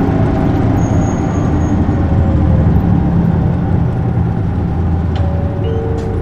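Isuzu Erga city bus's diesel engine and running gear under way, heard from inside the cabin: a steady low engine drone with road noise. A couple of faint clicks come near the end.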